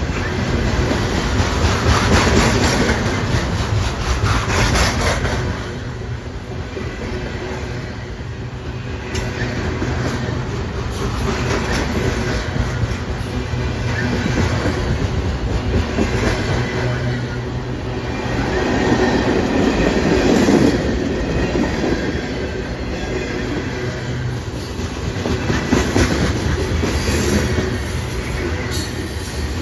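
Train rolling past on the rails: a continuous rumble of wheels with repeated clicking from the rail joints, swelling and easing in loudness.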